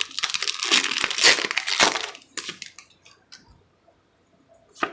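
Foil Pokémon booster pack wrapper crinkling and tearing open for about two seconds, followed by a few faint rustles and one sharp tap near the end.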